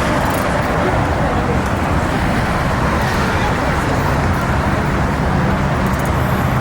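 Steady vehicle noise, like engines running, with indistinct voices mixed in.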